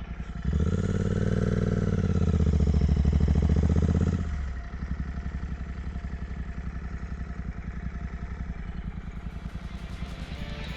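Royal Enfield 650 parallel-twin motorcycle engine pulling away under throttle: it gets louder about half a second in and the revs climb for a few seconds. At about four seconds the throttle eases off and it settles into a quieter, steady run.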